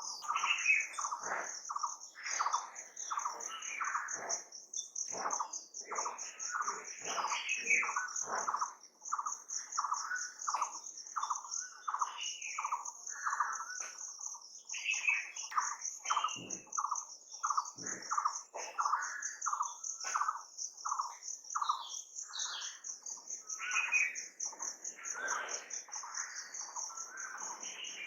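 Wild birds calling and chirping, with long runs of short repeated notes, over a continuous high, pulsing insect trill.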